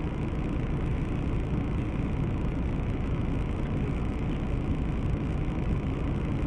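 Steady low rumble and hiss of car cabin noise picked up by a dashcam microphone, the engine running while the camera car sits still; no sharp impact stands out.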